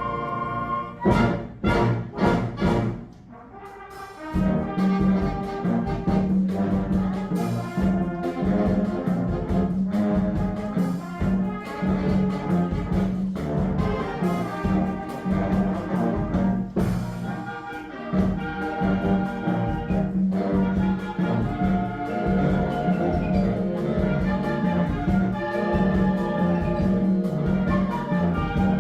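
A band playing, recorded live: a few sharp chord hits about a second in, a short drop in level, then a steady beat over a sustained low note from about four seconds on.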